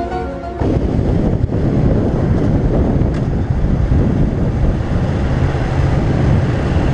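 Wind rushing over the microphone of a moving motorcycle, a steady loud roar with road and engine noise beneath it. A few notes of music stop about half a second in.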